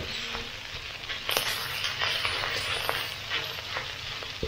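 Red curry paste frying in hot oil in a pan, sizzling steadily as it is stir-fried, with a few sharp knocks against the pan.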